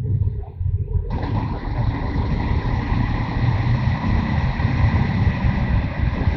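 Motorcycle engine running under way with a low, pulsing rumble. About a second in, a steady rush of wind and road noise comes in suddenly and carries on over it.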